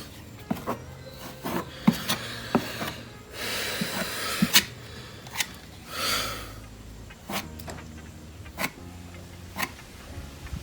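Body filler being spread and scraped across a car bumper: short scraping strokes with scattered light clicks and taps in between.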